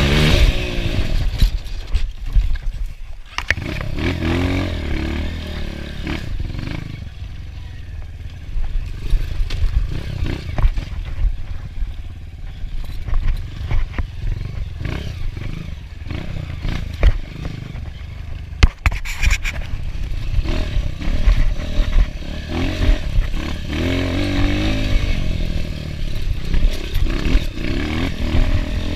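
Enduro dirt bike engine revving up and dropping back repeatedly over rough ground, with frequent knocks and clatter from the bike and terrain. There is a sharp knock a little past the middle.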